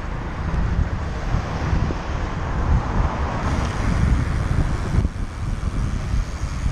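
Wind buffeting the microphone of a camera on a moving bicycle: a loud, gusty low rumble.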